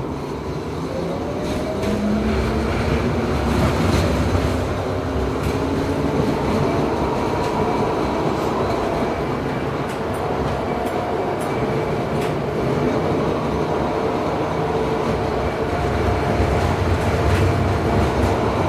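LM-99K tram running: its traction motors whine rising in pitch over the first few seconds as it picks up speed, then settle into steady running over a continuous rumble, with occasional knocks from the wheels on the rails.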